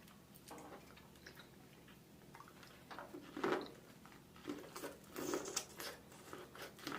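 Close-miked chewing and biting of seafood, faint at first, then a few louder smacks and crunches from about three seconds in.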